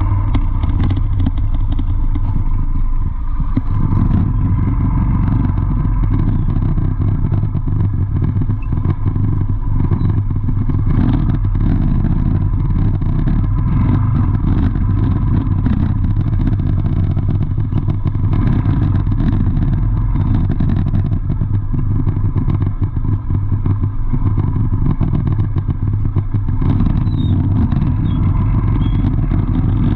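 Motor vehicle traffic: engines running with a steady, loud low rumble and some clatter.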